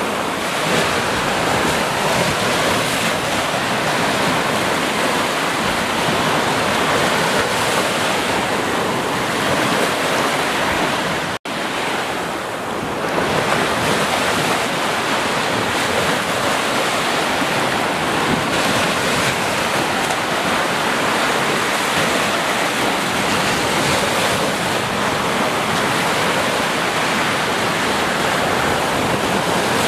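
Ocean surf washing in a steady, dense rush. It cuts out for an instant about a third of the way through.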